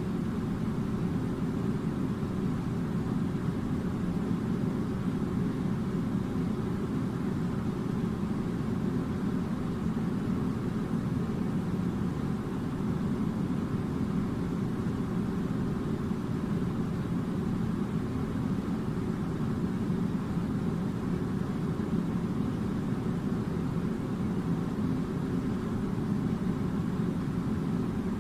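Steady low rumbling noise, even and unchanging, with no separate events.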